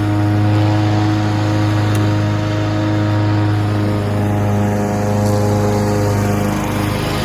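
Honda HRX walk-behind lawnmower engine running at high speed with the blade spinning while mowing. Its revs hunt a bit up and down, a fuel-related fault the owner puts down to poor fuel, something carried into the carburetor, or a damaged main jet.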